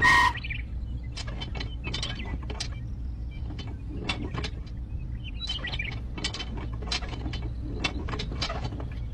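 Low steady motor hum with frequent irregular clicks and knocks, as from a mini tractor loader running and working.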